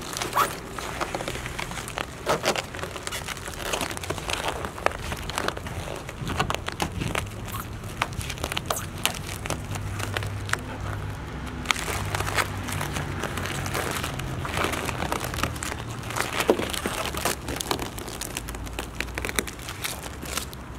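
Vinyl car wrap being peeled off a painted body panel by hand, crackling and crinkling in irregular bursts as the film lifts away.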